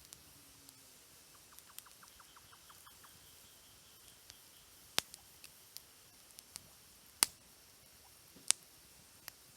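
Wood campfire crackling, with scattered sharp pops; three louder pops come about five, seven and eight and a half seconds in. Near the start there is a short run of faint, rapid, even ticks.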